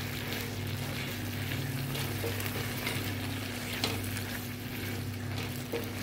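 Liver pieces frying in masala in a nonstick pan, sizzling steadily while a spatula stirs them, with short scrapes of the spatula against the pan every second or so. The pan juices are cooking off as the liver is dry-fried (bhuna).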